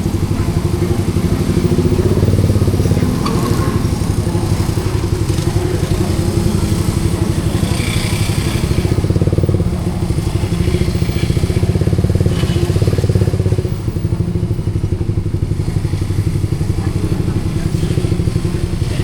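Suzuki GSX-R150's single-cylinder engine running through an aftermarket SARP exhaust, with a steady exhaust note that dips briefly about fourteen seconds in.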